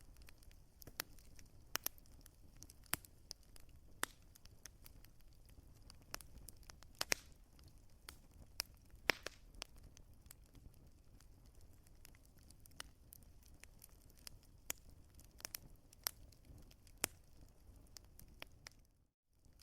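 Wood fire crackling, with irregular sharp pops and snaps of burning logs over a low, steady rumble of the flames. The sound drops out briefly just before the end.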